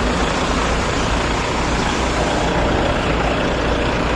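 Volvo FH 440 truck's D13 inline-six diesel engine idling steadily.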